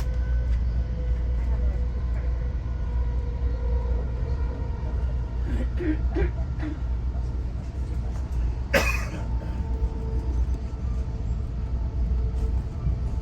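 Passenger train running at speed, heard from inside the car: a steady low rumble, with one sharp clack about nine seconds in.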